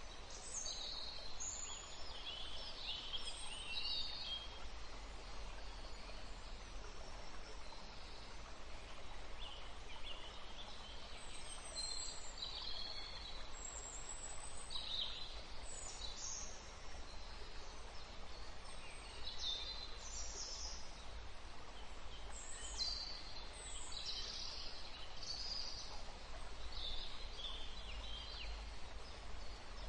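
Birds chirping: short, high calls that come and go at irregular moments, over a low rumble.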